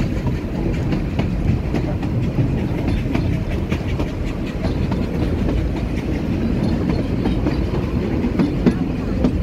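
Puffing Billy narrow-gauge heritage train running, heard from aboard a carriage: a steady low rumble of wheels on rails with scattered light clatter.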